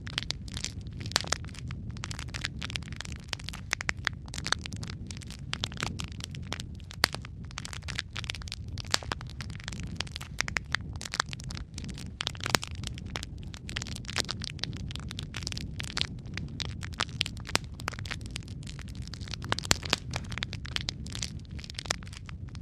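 Wood fire crackling steadily in a fireplace: a low rumble of flames with frequent sharp, irregular pops and snaps.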